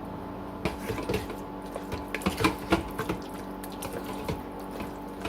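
Utensil stirring a thick, wet mixture of shredded chicken, cream cheese and cheddar in a slow cooker crock: irregular squishing and small scraping clicks, starting just under a second in, over a steady low hum.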